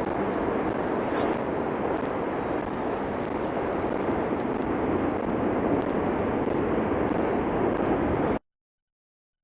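Cumbre Vieja volcano erupting: a steady, rushing noise that cuts off abruptly about eight seconds in.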